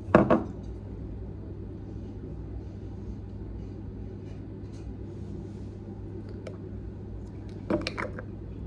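A steady low hum runs throughout, with one loud knock just after the start and a short burst of clicks and knocks near the end.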